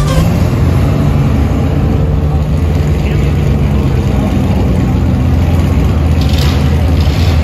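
Loud, steady, low engine rumble of custom cars rolling slowly past at low revs: a red Austin-Healey Sprite-style roadster, then an orange Chevrolet S-10 pickup.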